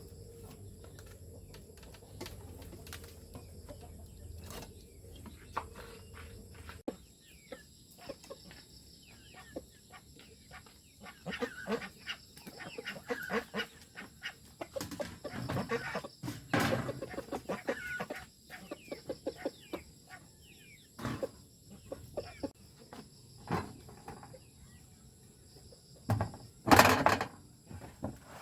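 Chickens clucking, with scattered short knocks, and a loud, brief burst of noise near the end.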